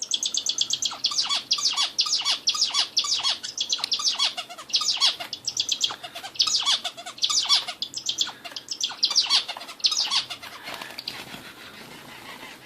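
A caged songbird sold as a 'hint bülbülü' (Indian nightingale) singing. Its song is rapid runs of high, quickly repeated notes over short lower swooping notes, in phrases that die away about ten seconds in.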